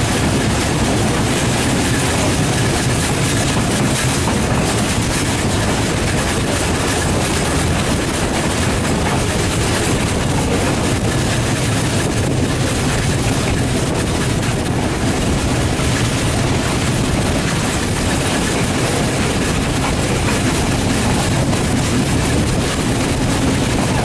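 Passenger train running steadily along the track, heard from an open coach window: a continuous rumble and rattle of wheels on rails.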